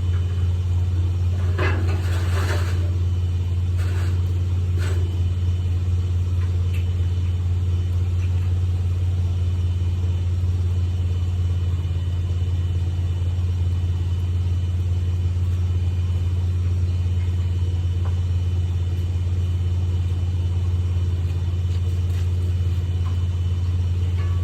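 Steady low engine drone that holds one pitch throughout, with a few brief clatters about two and five seconds in.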